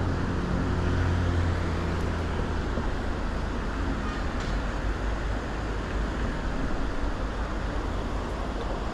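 Boat motor running under way, a steady low hum with a rushing rumble of water and wind. The hum fades about two to three seconds in, leaving the rumble.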